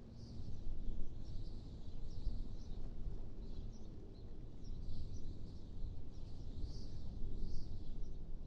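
Wind blowing as a low rumble that swells and eases, with small birds chirping faintly and repeatedly through it.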